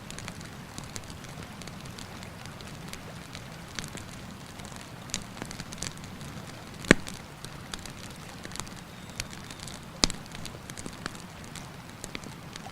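Wood campfire crackling, with many small snaps and two louder pops about seven and ten seconds in, over a steady rushing background of river water.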